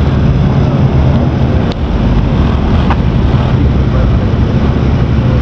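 Car engines running steadily nearby, a loud, even low hum with no rise or fall in pitch.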